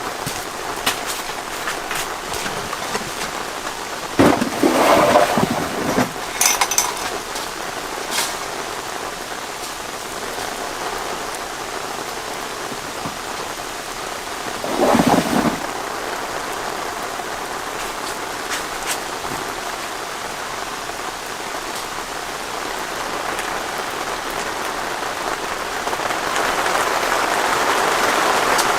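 Steady rain with individual drops striking close by, and two louder short bursts about four seconds and fifteen seconds in. The rain grows heavier near the end.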